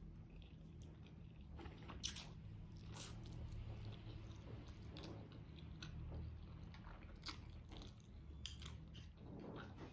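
Close-miked chewing of a mouthful of spaghetti carbonara, with scattered wet mouth clicks and smacks over a faint steady low hum.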